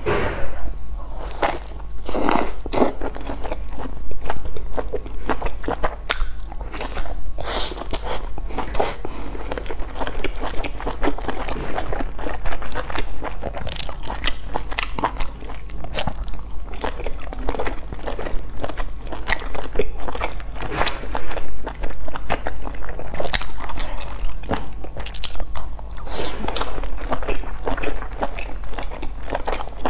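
A person biting and chewing eggplant-filled buns close to the microphone, with a dense, irregular run of sharp bite and chew sounds. A low steady hum runs underneath.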